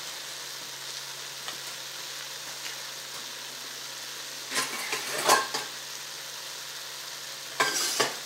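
Scrambled eggs sizzling in a 3-ply stainless steel frypan over an alcohol stove: a steady hiss, with two short louder bursts about halfway through and near the end.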